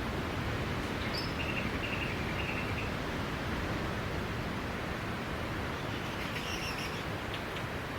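Steady noise of sea waves on a beach, with a few short high chirps about a second in and again near the end.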